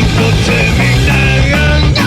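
Punk rock band playing an instrumental passage: distorted electric guitar, bass and drums, loud and dense.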